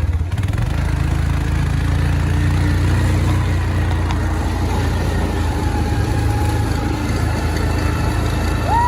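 Vehicle engine running steadily at an even speed, a constant low hum heard from on board.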